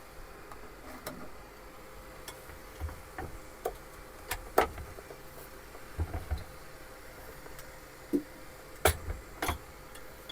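Scattered light clicks and knocks of objects being handled in a small room, over a faint steady hum; the sharpest knocks come about four and a half and nine seconds in.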